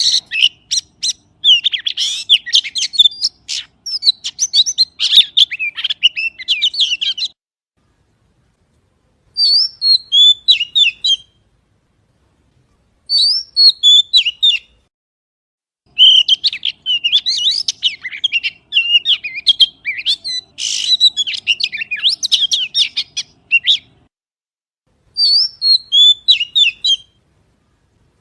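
Magpie singing rapid, varied chirping phrases, some lasting several seconds and some short, separated by gaps of complete silence. The same short phrase comes back three times.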